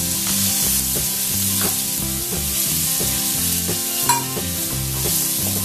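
Diced carrot and chopped garlic sizzling in hot vegetable oil in a wok over high flame. A wooden spatula stirs them, scraping and knocking against the pan a few times, most sharply about four seconds in.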